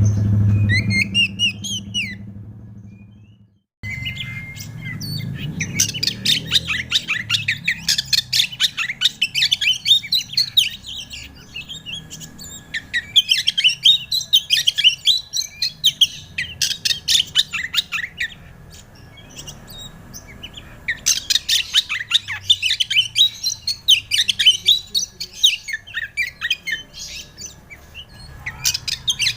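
Oriental magpie-robin (kacer) singing a fast, varied song of chattering notes and whistles in long bouts, with short pauses between them. In the first few seconds a low hum fades out into a brief silent gap before the song starts.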